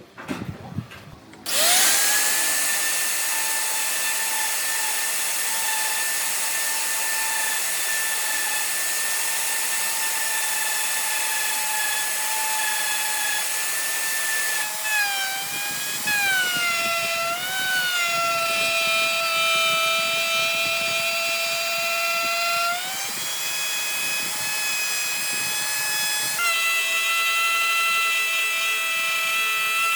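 Electric power tool motor starting up about a second and a half in and running with a steady high whine. About halfway through its pitch drops and wavers, rises back a few seconds later, then drops again near the end.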